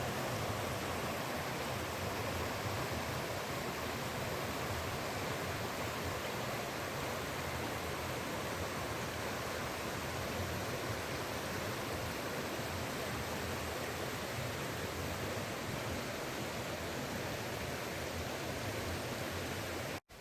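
Steady rushing of flowing water, even and unbroken, cutting off suddenly about twenty seconds in.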